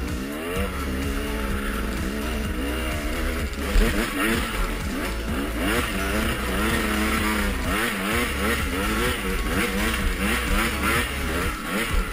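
Off-road motorcycle engines revving, the pitch rising and falling over and over as the throttle is opened and closed, over background music.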